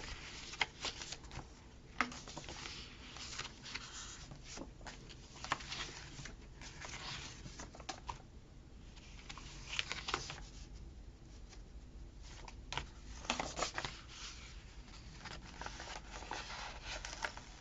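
Paper sticker sheets and planner pages being handled: soft rustling with scattered small clicks and taps as stickers are peeled off and pressed down.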